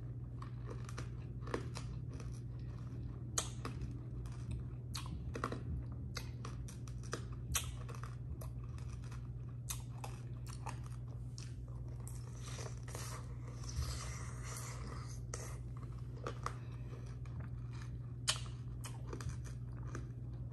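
Close-up chewing of a candy-coated grape: the hard candy shell cracks between the teeth in irregular crunches, with juicy chewing in between. A steady low hum runs underneath.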